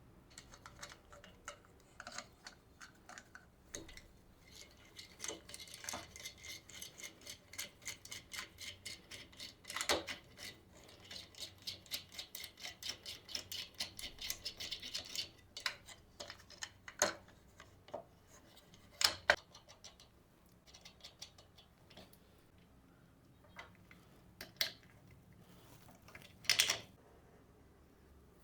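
Hand assembly work on a wooden jig: light clicks and taps of tools and parts, with a fast, even run of ticks in the middle and a few sharper knocks near the end.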